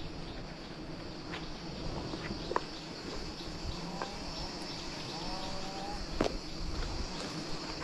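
Steady high-pitched insect chirring, with scattered light clicks and snaps and a short wavering tone about five seconds in.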